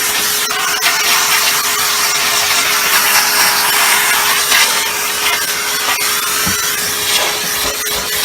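Vacuum cleaner running with its dusting brush attachment, sucking dirt out of a part: a steady motor hum under rushing air, with irregular scratchy rubbing as the brush works over the surface.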